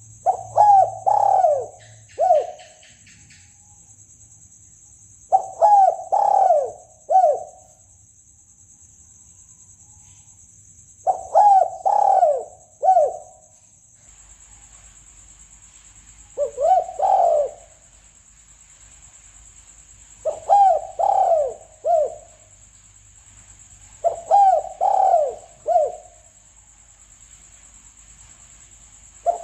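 Spotted dove cooing, a recorded lure call for drawing doves in: a phrase of three or four coos repeated six times, every four to six seconds. A faint steady high hiss runs behind it.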